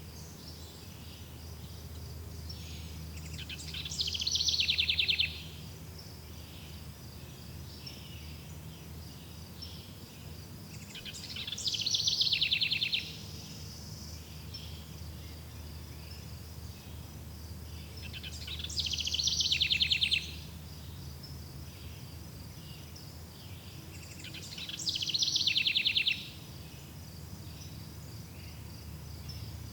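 A songbird repeating the same short song four times, about every seven seconds: each a quick run of high notes that grows louder and ends in a rapid trill. Underneath runs a steady high insect chirring and a low steady rumble.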